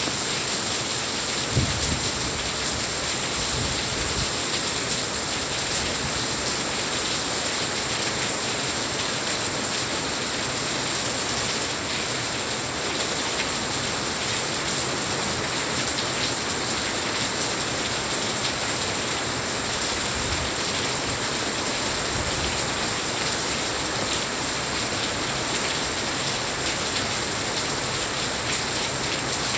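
Heavy rain falling steadily as a dense, even hiss, with a brief low thump about a second and a half in.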